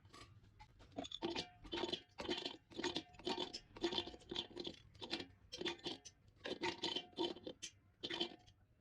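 Rhythmic back-and-forth scraping, about two to three strokes a second, that stops shortly before the end.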